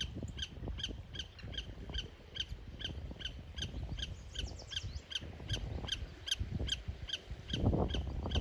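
A bird calling from a treetop: a steady series of short, evenly spaced nasal notes, about three a second, with a low rumble of wind or surf beneath.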